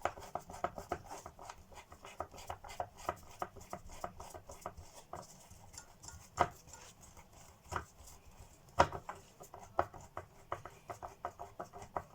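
Parts of a Hoover Junior upright vacuum cleaner being handled and worked on with tools: many light, irregular clicks and taps, with a few louder knocks at about six and a half, just under eight and about nine seconds in.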